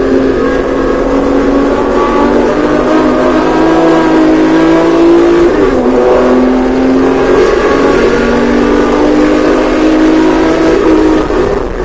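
Porsche 911SC's air-cooled flat-six engine at full throttle, its pitch climbing steadily. About halfway through the pitch falls sharply at an upshift, then it climbs again and dips once more near the end.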